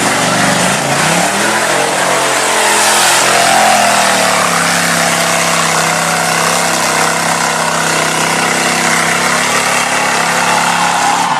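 Off-road 4x4 truck engine revving hard. Its pitch climbs over the first second or two, then holds at high revs with a rough, noisy edge.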